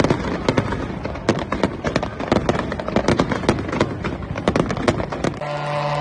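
Fireworks going off in a rapid, irregular volley of bangs and crackling pops. About five and a half seconds in the bangs stop abruptly and a steady droning hum takes over.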